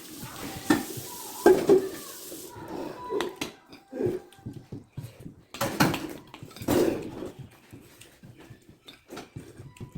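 Dishes and cutlery clinking and knocking on plates as people eat a meal, with a steady hiss over the first two and a half seconds that then cuts off.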